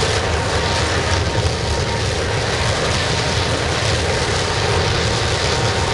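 Air-atomised waste-oil burner firing a scrapping furnace, running steadily: an even rush of flame and air over a strong low rumble. Its oil feed has just been turned up a touch.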